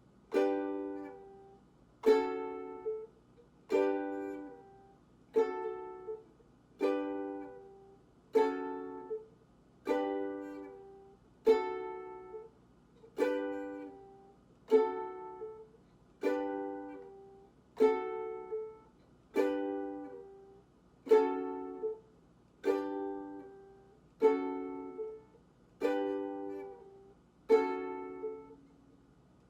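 Ukulele strummed in single down-strokes at a slow, steady pace, about one chord every 0.8 seconds, each left to ring and fade before the next: a chord-change practice between G♭m and G.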